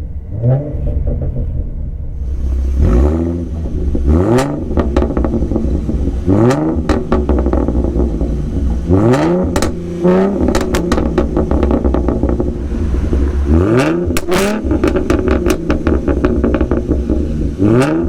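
2011 Ford Mustang's 3.7-litre V6 through a Roush axle-back exhaust, idling and blipped several times: each rev rises quickly in pitch and drops back to idle.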